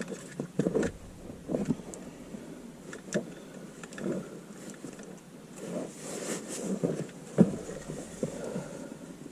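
Handling noise inside a car: irregular clicks, taps and rustling, about a dozen short knocks spread unevenly, the sharpest about seven seconds in.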